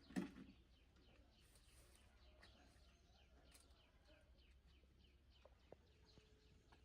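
Faint birdsong: many short, quick, falling chirps, several a second, over a low steady hum. A single sharp knock sounds right at the start, and two faint clicks come near the end.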